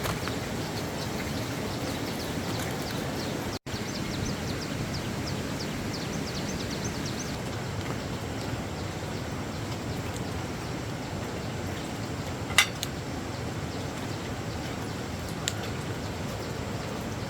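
Steady outdoor background noise, with faint, rapid high chirps through the first several seconds. A single sharp click or clink comes about twelve seconds in.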